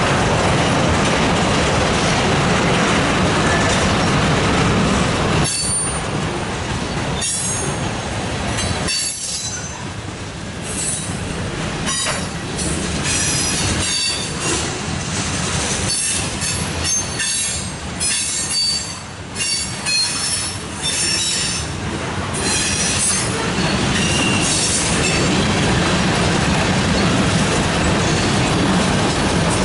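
A freight train of tank cars and covered hoppers rolling past close by: a steady loud noise of steel wheels on rail. From about five seconds in until about twenty-two seconds in, irregular clanks and rattles break through it.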